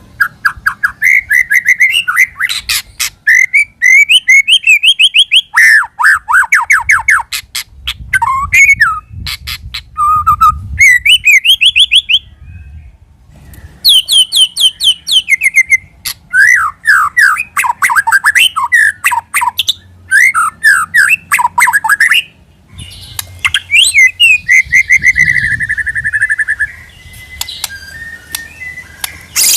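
White-rumped shama singing: loud, varied phrases of rapid trills and sweeping whistles, broken by short pauses.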